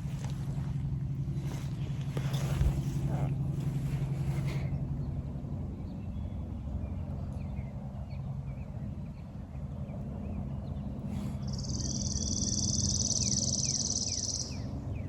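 Steady low hum of distant road traffic over open country, with scattered short bird chirps and, near the end, one high songbird trill lasting about three seconds.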